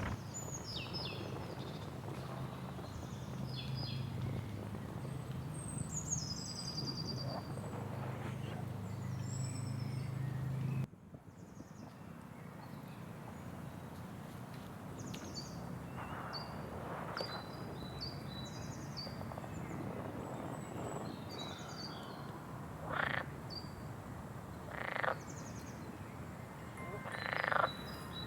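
Frogs croaking with short high bird chirps over a steady background. A low hum stops abruptly about eleven seconds in, and a few louder calls come near the end.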